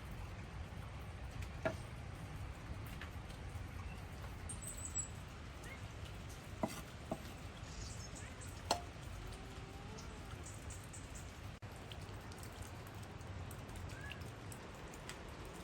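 Steady rain falling, with a few separate drops hitting sharply now and then.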